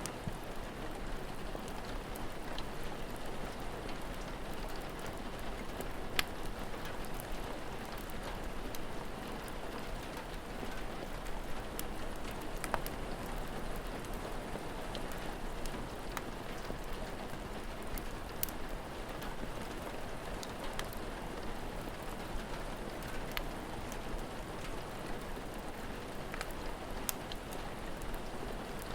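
Steady rain falling, with scattered sharp pops and crackles of a wood fire.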